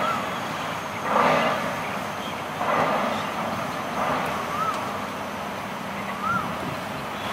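Birds calling in the trees: a harsh call repeated about every one and a half seconds, with a few short whistled notes between, over a faint steady hum of distant traffic.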